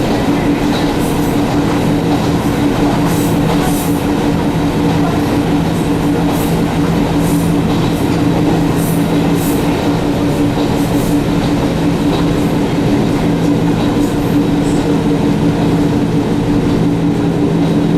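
Echizen Railway electric train running steadily along the line: an even rumble of wheels on rail under a steady low hum from the motors and gears, with a few faint ticks over it.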